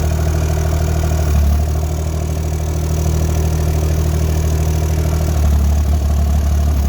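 A 2-ton mini excavator's engine running steadily while the machine works. Its note shifts slightly about a second and a half in and grows a little louder near the end.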